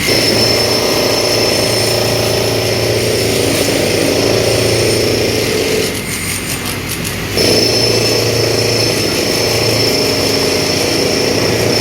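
Heavy construction vehicle's engine running steadily, with a high whine over it. Engine and whine drop away briefly about six seconds in, then come back.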